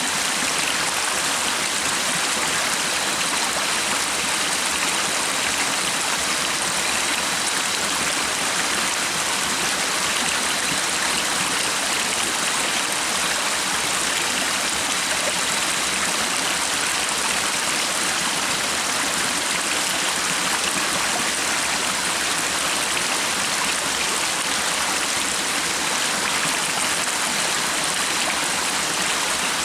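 Stream water running steadily, an even rushing with no breaks, and a faint thin high tone held throughout.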